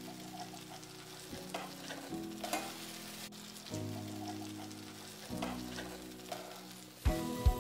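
Leek and sweet potato fritters sizzling in hot oil in a frying pan, with scattered crackles and a metal spatula scraping under them. Soft held background music runs underneath, and music with a strong beat comes in near the end.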